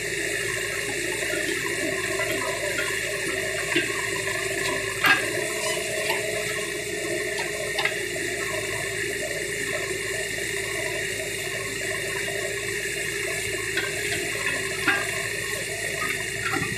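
L&T Case 770 backhoe loader running steadily with an even rushing noise, with a few short knocks, the loudest about five seconds in.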